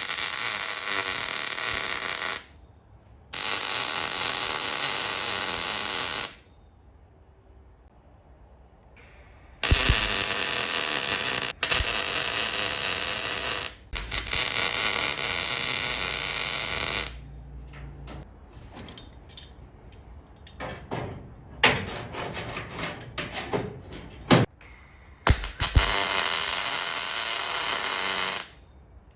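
Welder laying welds on sheet-metal panels in several bursts of two to four seconds each, a steady hiss that starts and stops abruptly, with a few very short tack-like bursts between them.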